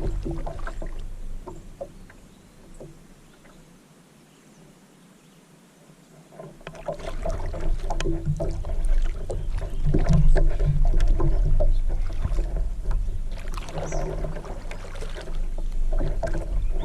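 Kayak in the water: water splashing and sloshing with scattered knocks against the hull over a low rumble. It drops quiet for a few seconds about two seconds in, then the splashing and knocking return.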